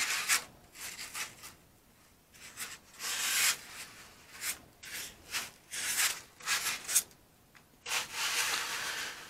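Irregular rubbing and scraping strokes, foam against foam, as a foam wing core is slid back into its foam shuck. The strokes come in short bursts with pauses, and one longer rub comes near the end.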